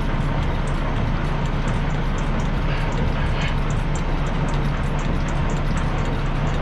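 Semi truck's diesel engine idling, a steady low hum with a broad rumble over it.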